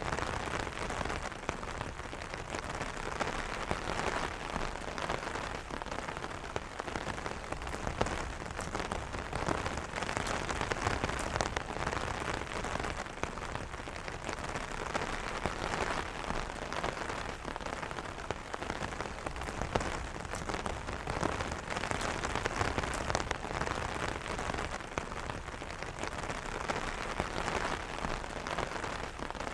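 Steady rain falling on an umbrella: a dense run of small drop taps on the canopy over an even hiss, with no letting up.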